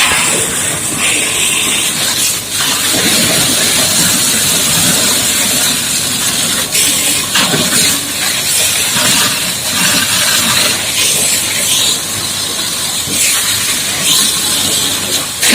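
High-pressure water jet from a booster pump spraying onto a mining dump truck during washing: a loud, unbroken hiss that rises and dips.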